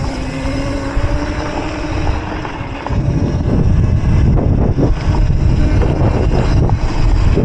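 Electric mini bike's motor whining at a steady pitch. About three seconds in, loud wind rumble on the microphone takes over.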